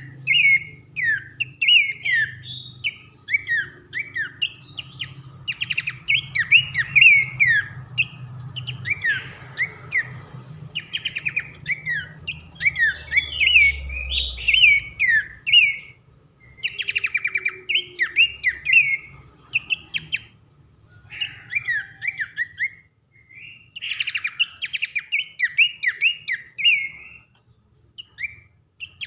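Pelanduk semak (a babbler) singing loud whistles: fast runs of short, sharply falling notes, several a second, broken by a few short pauses, over a faint low hum.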